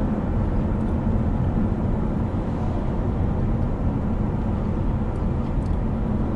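Steady road and engine noise of a car driving along the highway, heard from inside the cabin, a constant low rumble with no change.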